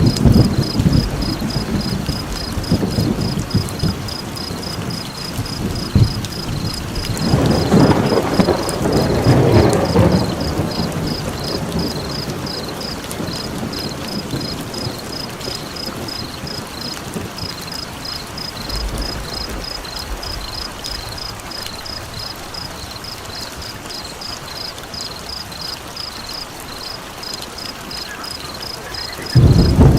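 Rain with rolling thunder: deep rumbles at the start, again about seven to ten seconds in, and once more just before the end. A steady, high-pitched chirping of a few pulses a second runs through it.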